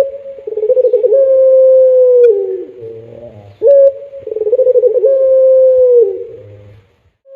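Puter pelung dove, a domesticated ringneck dove, cooing twice. Each call opens with a short sharp note, then runs into a long, slightly wavering coo that drops in pitch as it ends.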